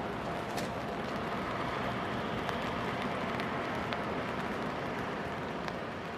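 Heavy rain falling steadily, an even hiss with scattered faint drop ticks. A faint steady tone under it fades out about two seconds in.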